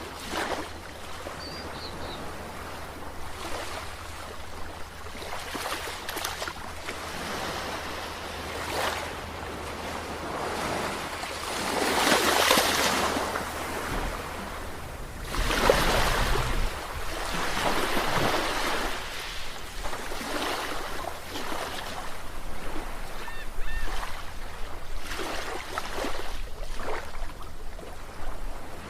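Sea waves washing in and drawing back in repeated surges, the heaviest about twelve and sixteen seconds in.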